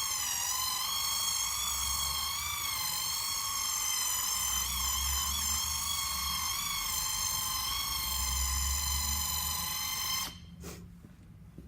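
Electric power buffer running at high speed, a steady whine that wavers slightly in pitch as it is worked over the door paint to polish away the small marks left by the dent-repair tools. It cuts off suddenly about ten seconds in.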